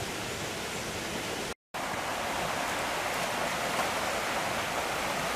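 Steady rushing outdoor noise with no distinct events, cut by a brief dead dropout to silence about one and a half seconds in.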